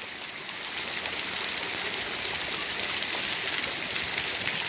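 Steady heavy rain falling on the street, a continuous hiss of drops with faint scattered patters.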